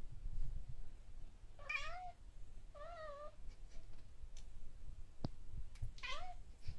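Domestic cat meowing three times: two short, wavering meows close together about two seconds in, and a third near the end. A single sharp click falls between them.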